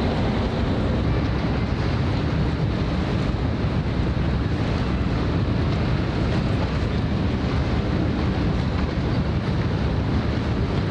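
Steady wind noise on the microphone: a dense low rumble with a hiss above it, even throughout.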